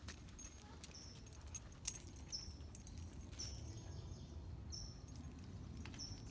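A bird repeating a short, high chirp about once a second, over a faint low outdoor rumble.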